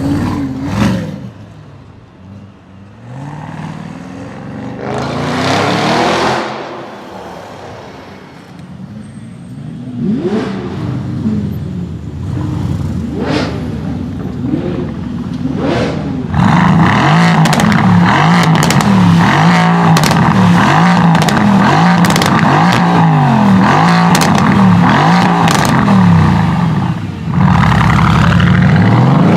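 High-performance car engines: a few cars swell up and fade in the first half, then from about halfway an engine runs loud and hard, its pitch wavering up and down, with sharp pops, before briefly dropping off and coming back near the end.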